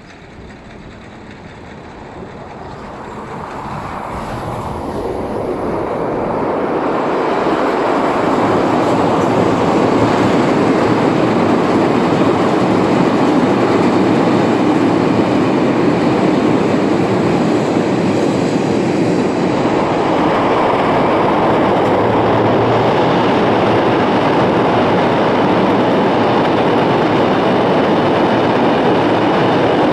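A train approaches, growing steadily louder over the first eight seconds or so, then runs past with a steady rush of wheel and rail noise.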